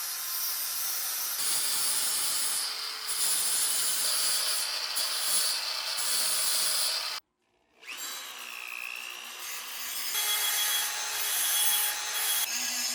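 Abrasive rubbing and scraping, like sanding or filing, on a part being restored. It breaks off suddenly about seven seconds in and starts again with a short rising-and-falling whine.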